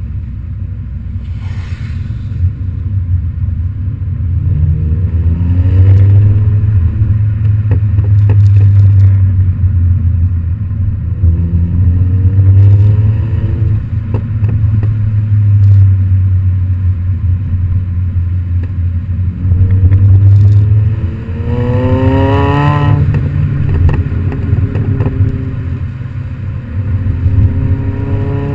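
Modified MINI GP's aftermarket exhaust, the engine running with a steady low drone and revving up three times, the biggest rise about three quarters of the way through.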